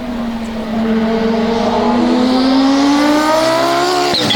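1989 Audi 90 IMSA GTO's 2.2-litre turbocharged five-cylinder engine accelerating hard, its pitch climbing steadily, then dropping sharply near the end at a gear change.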